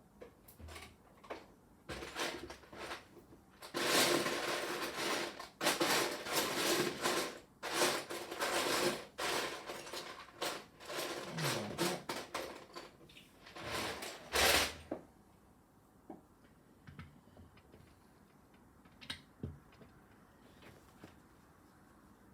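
Loose Lego bricks rattling and clattering as hands rummage through a pile of pieces, for about twelve seconds. It then stops abruptly, leaving a few light plastic clicks.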